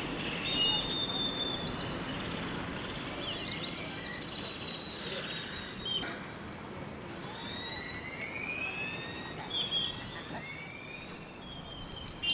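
Birds calling: many short whistles and gliding calls, some rising and some falling, over a steady background hiss.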